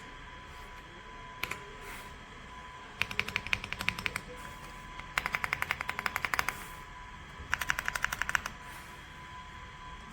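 AULA F75 mechanical keyboard with pre-lubed Reaper switches being typed on in three quick bursts of rapid keystrokes, about eight to ten clicks a second, after one lone keypress.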